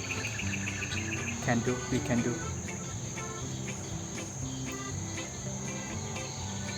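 Steady high insect chorus, with a rapid pulsed trill near the start, over soft background music.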